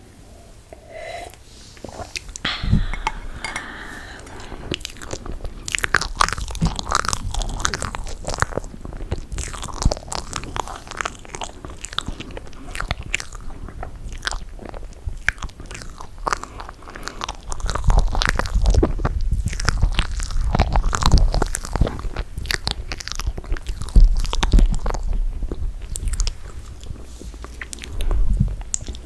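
Close-miked eating of toasted marshmallow: sticky, wet chewing with many small mouth clicks, getting heavier around two-thirds of the way in.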